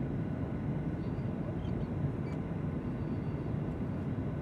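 Steady low rumble of a jet airliner in flight, engine and airflow noise as heard inside the passenger cabin.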